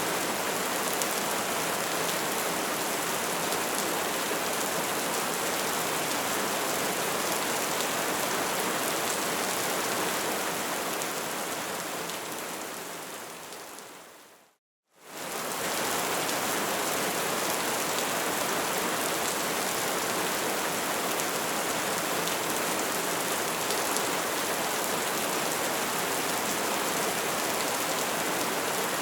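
Bonfire crackling steadily, a dense hiss of flames full of small pops. About halfway through it fades away to a brief moment of silence, then returns at full level.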